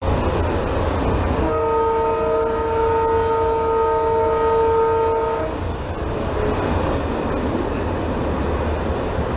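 A train rumbling along steadily, its horn sounding one long blast of several notes at once from about a second and a half in to about five and a half seconds.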